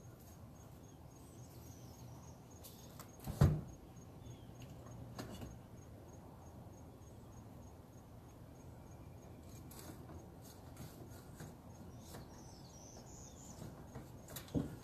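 Quiet early-morning outdoor ambience with faint bird chirps and a faint, even, high-pitched ticking. A sharp knock sounds about three seconds in, the loudest thing here, and a smaller one near the end.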